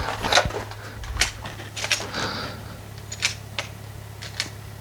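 A scattering of light clicks and rustles, the sound of gear being handled between shots, over a steady low hum.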